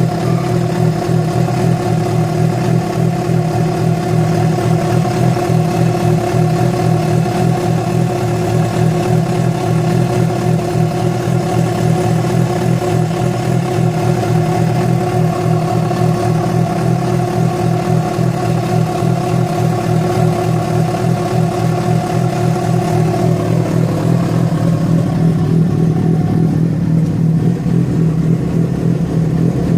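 Yamaha FZ6 inline-four motorcycle engine running steadily, carrying the strange noise that began after about 70 km ridden on two cylinders with a failed ignition coil connector. About three-quarters of the way through, the upper tones of the engine sound shift and fade.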